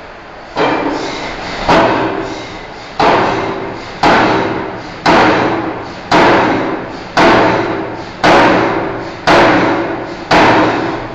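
Forging hammer striking steel bar stock, about ten heavy blows roughly one a second, each with a metallic ring that fades before the next blow.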